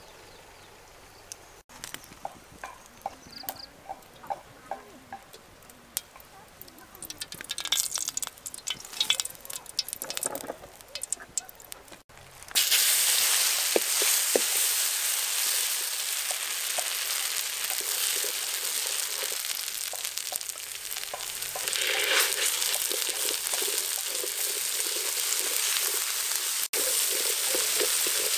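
Scattered light taps and handling noises, then, about twelve seconds in, hot oil suddenly sizzling steadily as chopped aromatics and spice paste are fried and stirred with a spatula in an aluminium wok over a wood fire.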